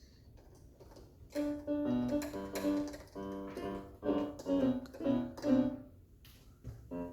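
Electronic keyboard played casually, with no set song: after about a second of quiet comes a string of single notes and small chords, a short pause, then more notes near the end.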